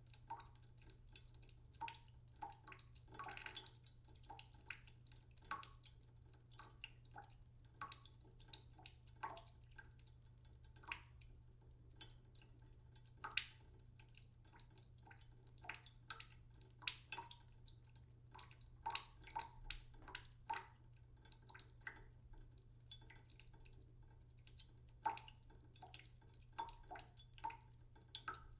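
Water dripping slowly into a cooking pot in a sink: faint, irregular drops, about one to three a second, each a short plink.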